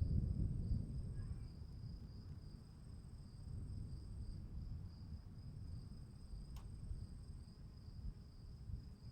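Crickets trilling steadily on two high pitches over a low, rumbling background noise. A single faint click comes about six and a half seconds in.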